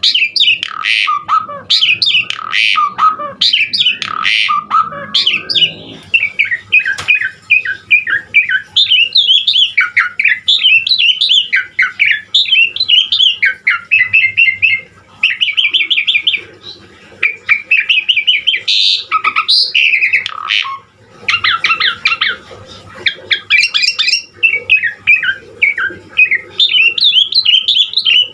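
Javan pied starling (jalak suren) in full song: a loud, unbroken run of varied phrases, with quick chirps, rapid trills, whistles and harsh squawks that change every second or two. This is the varied fill (isian) sought in a master song for training other starlings.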